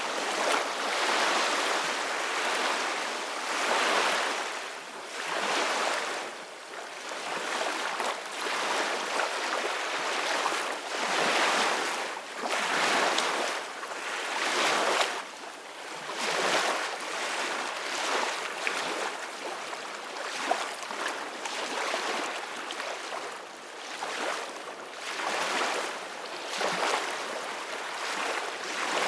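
Ocean waves washing in and breaking: a hiss of surf that swells and fades every two seconds or so.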